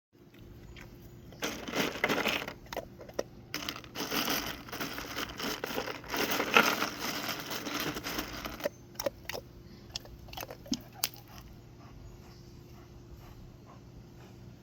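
A dog tearing and crunching at crinkly packaging material in rough, irregular bursts, followed by a few sharp clicks, then only a faint steady hum.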